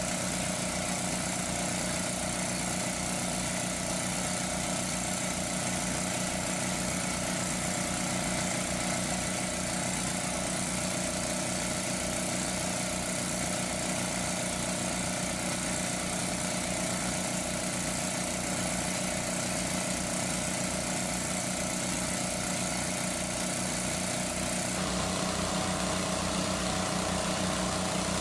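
A small engine running steadily at a constant speed, its tone shifting abruptly near the end.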